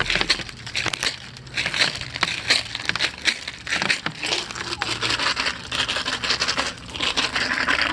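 Irregular crinkling, crunching and rustling handling noises, close and continuous, from packaging or food being handled.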